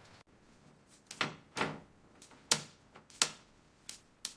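A series of about six short, sharp clicks and taps at irregular intervals, from hand-tool and part handling during vehicle assembly work.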